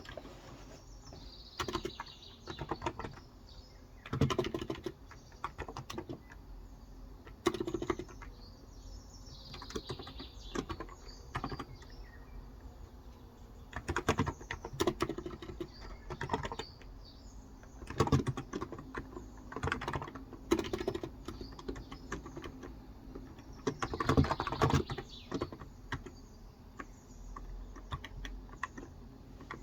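Typing on a Cox Endeavor tenkeyless keyboard with 35 g electrostatic capacitive switches: bursts of rapid keystrokes broken by short pauses. Birds chirp faintly in the background.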